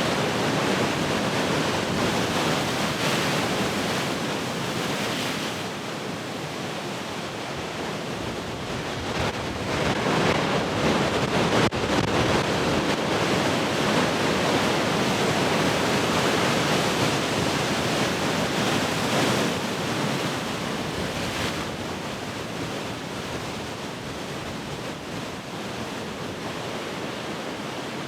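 Heavy ocean surf: a continuous wash of breaking waves that swells and eases. There is a louder stretch near the start and a longer one in the middle, and it is quieter toward the end.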